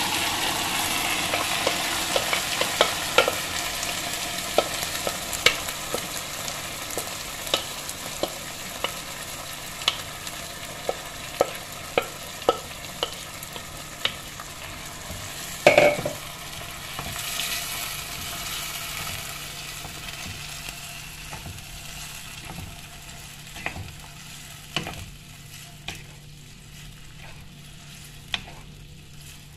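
Yogurt-marinated chicken pieces dropped into hot oil and fried onions in a pan: a loud sizzle that slowly dies down, swelling once more partway through. A wooden spoon scrapes and knocks many times against the bowl and pan, with one louder knock about halfway through.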